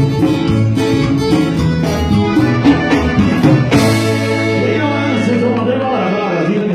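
Latin-style band music with singing; a low bass note is held for about two seconds near the middle.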